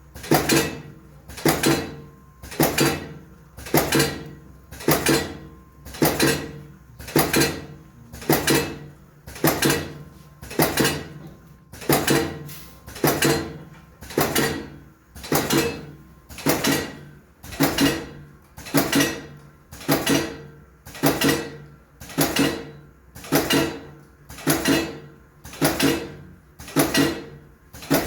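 Cotton pad making machine running through its cycle, a metallic clattering stroke with a short rattle roughly three times every two seconds, in a steady, even rhythm.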